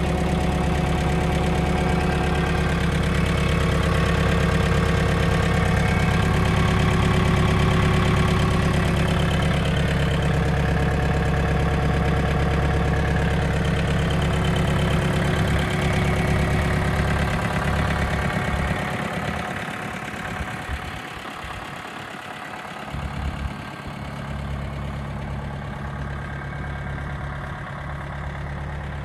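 Mitsubishi MT27 compact tractor's 27 hp four-cylinder diesel engine running steadily. About two-thirds of the way through it becomes quieter and its low rumble thins out.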